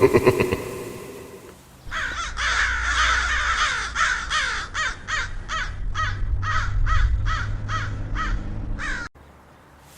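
A bird calling over and over in short calls that fall in pitch, coming about two a second later on. It starts about two seconds in and cuts off suddenly near the end.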